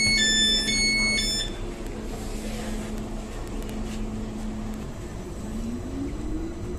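Inside an Ankeng Light Rail tram: an electronic chime of alternating tones finishes about a second and a half in, a low steady hum holds, then about five seconds in the traction motors start a rising whine as the tram pulls away from the station.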